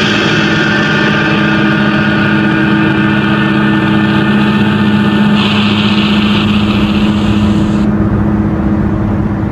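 A car engine running steadily under way, with road and wind hiss that changes abruptly twice, about five and eight seconds in.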